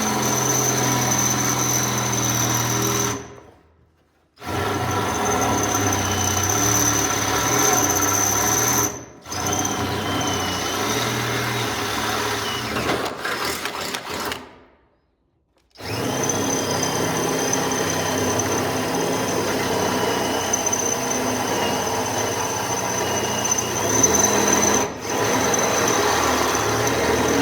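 Power drill running in long steady stretches with a high whine, stopping and restarting four times.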